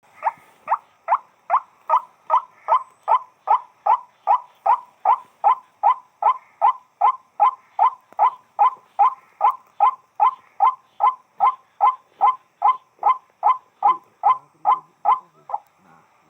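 White-breasted waterhen (burung wak-wak) calling a long, even series of short, identical notes, about two and a half a second, which stop near the end.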